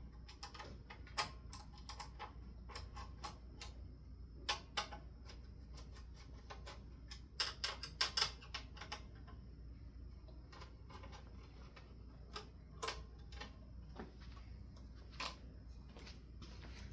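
Irregular faint clicks and light taps of ceiling fan parts being handled, with a quick run of them about seven to nine seconds in.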